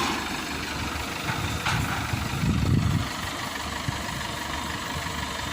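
Maxxi Bimo 102 combine harvester's diesel engine running steadily, with a brief louder surge in its low rumble about two and a half seconds in.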